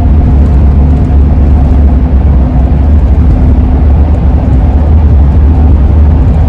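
Steady low road and engine rumble inside the cab of a moving 2001 Ford E-350 van, with a low howl from the roof rack that fades in and out.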